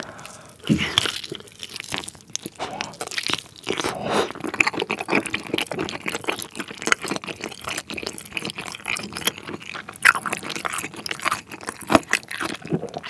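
Close-miked biting and chewing of a sauce-glazed grilled chicken drumstick. Its skin and meat make a dense, irregular run of wet smacks and small crunchy clicks.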